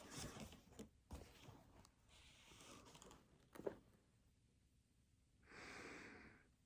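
Faint breaths in a quiet room, ending in a longer, sigh-like exhale near the end, with small rustles and clicks and one sharper tap midway.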